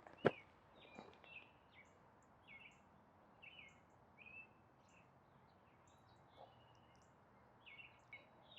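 Faint songbird chirping: short, repeated high notes through the whole stretch. A sharp click comes about a quarter second in, and a fainter one about a second in.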